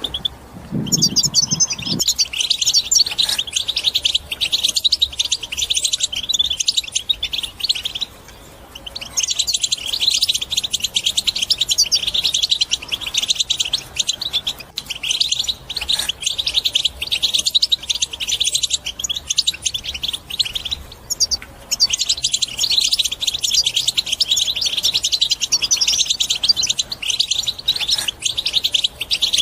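European goldfinch singing its rapid, chattering twitter song (the 'batbata'), in long runs broken by short pauses near the start, about eight seconds in and about twenty-one seconds in. A brief low sound comes about a second in.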